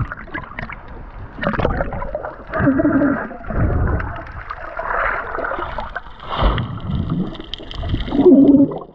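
Water sloshing and gurgling around a camera in a waterproof housing, in uneven surges, with a muffled murmur now and then.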